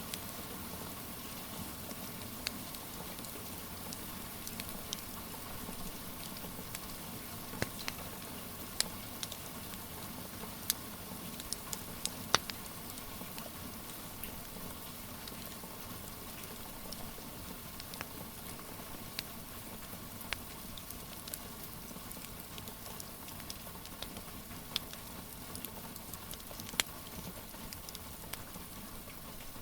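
Steady rain hiss with a wood fire crackling over it: sharp, irregular pops and snaps scattered throughout, a few of them louder.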